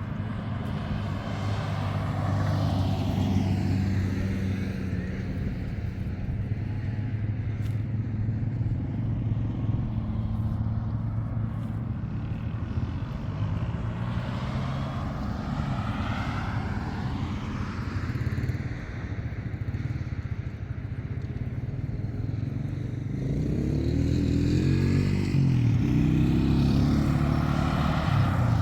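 A motor vehicle's engine running steadily, its pitch rising and sweeping up and down for a few seconds near the end as it revs.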